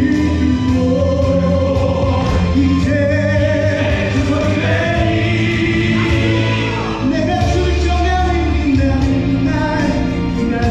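Several male voices sing a musical-theatre number together, holding notes with vibrato, over instrumental accompaniment with a steady bass and beat.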